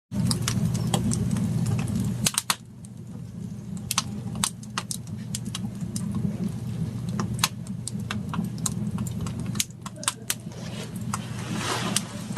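A motor running steadily with a low hum, with many irregular clicks and knocks over it; the hum is loudest for the first two seconds and again near the end.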